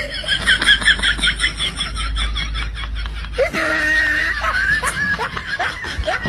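A person laughing in a quick, high-pitched run of giggles, about five a second, then a longer held voice sound about halfway through.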